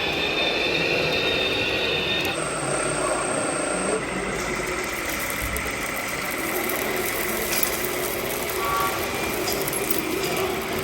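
Radio-controlled model trucks and construction machines running, with a steady high whine that changes pitch about two seconds in.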